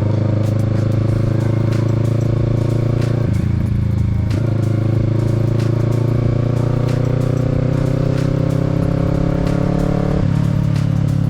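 Kawasaki Z650's parallel-twin engine pulling under acceleration, its pitch rising slowly. The note breaks off briefly about three seconds in and again near the end, as at gear changes.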